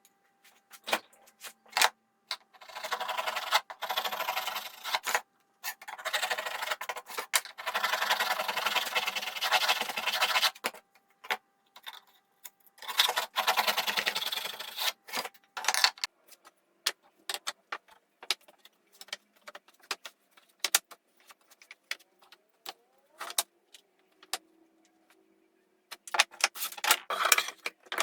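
Hand work on wood: three stretches of scratchy rasping, the middle one the longest, with many sharp clicks and knocks of wood and tools in between.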